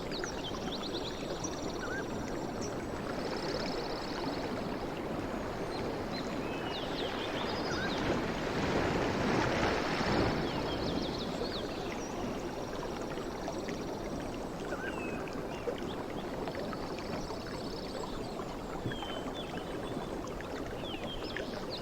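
Sea waves washing on the shore in a continuous rushing wash, with one wave swelling louder about eight to ten seconds in.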